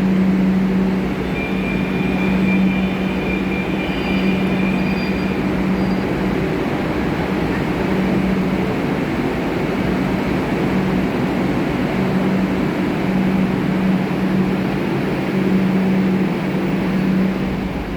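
Kolkata Metro train: a steady low electrical hum under the even rush of the coach's ventilation, with a thin high whine for a few seconds near the start.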